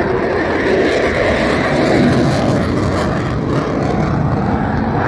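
Loud, steady jet roar of an F-22 Raptor's twin afterburning turbofans as the fighter flies its display, swelling slightly about two seconds in.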